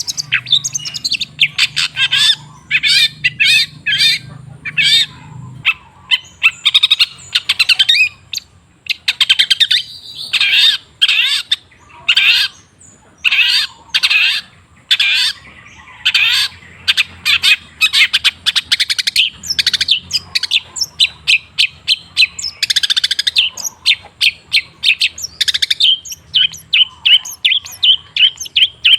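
Long-tailed shrike singing: a fast, varied string of short chirps and chattering notes, ending in a quick even run of repeated notes.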